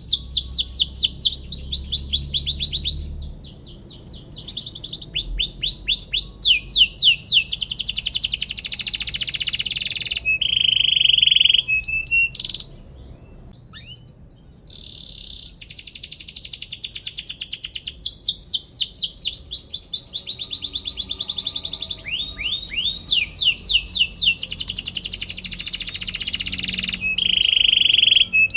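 Domestic canary singing a long song of fast trills, each a rapid run of falling notes, with a few held whistled notes between them. The song breaks off briefly twice, once a few seconds in and once near the middle.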